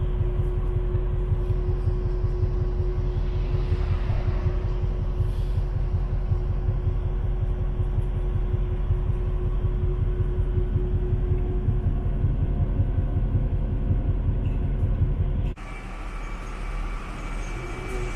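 Heavy, steady engine rumble with a constant hum over it, as of a large vehicle or boat running; about fifteen seconds in it cuts off abruptly and gives way to a quieter drone.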